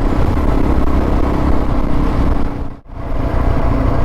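Suzuki DR650's single-cylinder engine running at a steady cruise while riding. Near three seconds in, the sound drops out sharply for a moment, then comes back.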